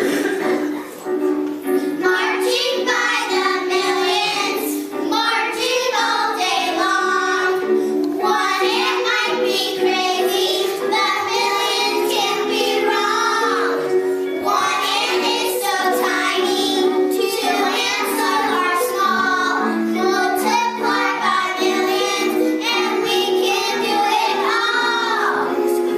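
Children singing a song, with sung notes held and changing throughout.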